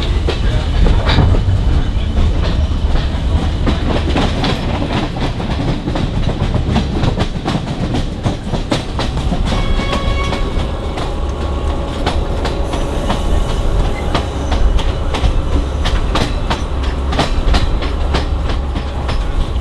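Passenger train running along the track, heard from an open carriage window: a steady rumble with the wheels clicking and clattering over the rail joints.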